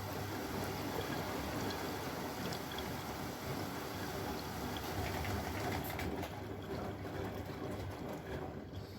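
Bosch Maxx washing machine running, with rushing water and a steady low motor hum. The sound dies away near the end, leaving it almost quiet.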